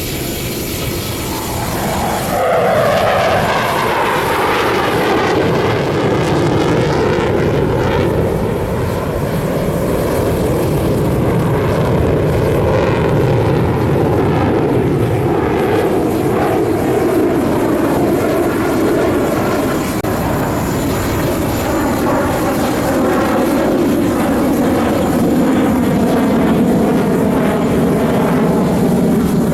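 Sukhoi twin-engine jet fighters roaring overhead in a display pass. The sound swells about two seconds in with a falling pitch as they go by, then continues as a steady jet roar.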